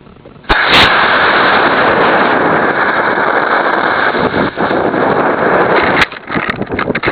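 Force 5 model rocket lighting and lifting off: a sharp click about half a second in, then a loud, steady rushing noise of motor and air for about five and a half seconds. It ends in a sharp pop around six seconds in, typical of the ejection charge firing, followed by rough, irregular crackling.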